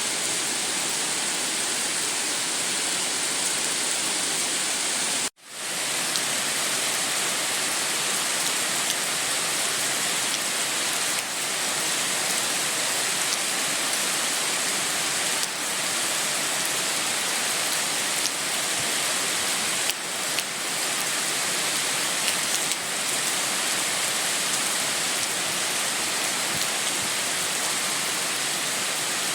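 Steady heavy rain, an even hiss strongest in the treble, which drops out suddenly for a moment about five seconds in and swells back.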